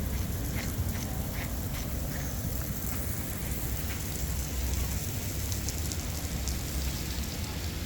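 Water from a natural spring flowing and splashing in a steady rush.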